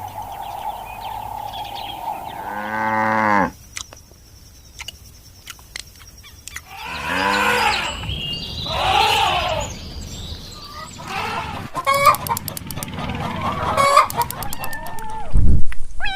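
Chickens: a rooster crowing, with long pitched calls that fall away at the end, then hens clucking in a run of short calls. At the start, birds chirp over a steady hum before the sound cuts away.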